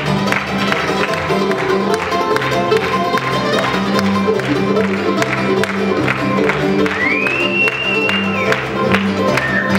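An old-time string band plays an instrumental break on fiddle, mandolin, guitar and bass: a steady bass line under even, rhythmic strumming and picking. About seven seconds in, a high note slides up and is held.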